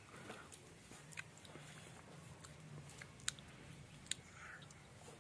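Faint chewing of bread, with scattered small sharp mouth clicks about a second apart.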